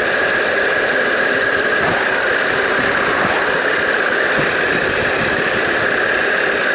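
Harley-Davidson Pan America's 1250 V-twin engine running steadily under a constant rush of noise.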